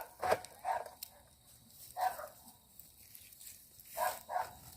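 A dog barking: three pairs of short barks a couple of seconds apart.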